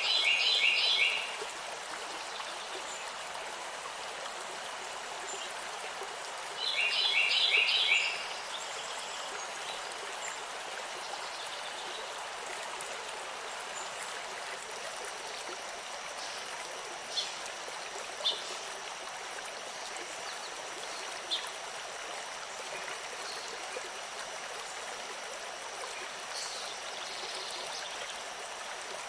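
Flowing water, a steady rushing like a stream. A bird sings two short phrases of rapid repeated notes, one at the start and one about seven seconds in, and gives a few faint chirps later.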